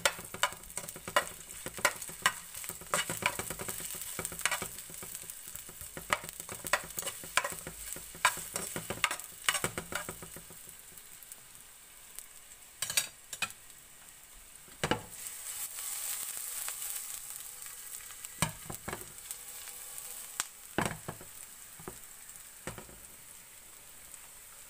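Sliced red onion sizzling in hot oil in a nonstick frying pan, stirred with metal tongs. A steady hiss runs under frequent sharp pops and crackles, which are dense for the first ten seconds or so and then thin out to occasional louder pops.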